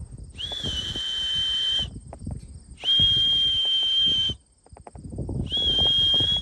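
A whistle blown in three long, steady, high blasts, calling racing pigeons down to the loft, with scattered low taps underneath.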